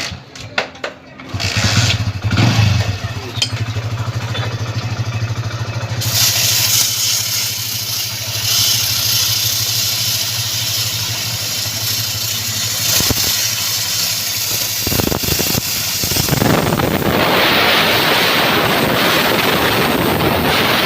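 A motorcycle engine is kick-started about a second in and left running steadily. About six seconds in, a steady hiss joins, likely a pressure spray on the drive chain, and it grows much louder for the last few seconds.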